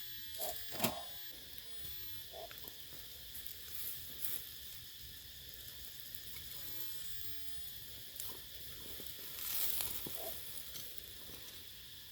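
Steady high-pitched chorus of insects, with a few short sharp clicks and knocks over it, the loudest under a second in.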